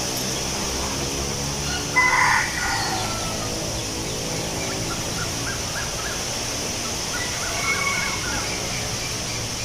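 Wind blowing through leaves, a steady rustling hiss. A short, loud bird call comes about two seconds in, and a few faint chirps come near the end.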